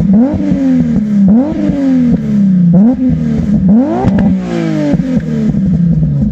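Nissan 350Z's 3.5-litre V6 being free-revved while parked, blipped about once a second: each blip is a quick rise in pitch and then a slower fall back toward idle.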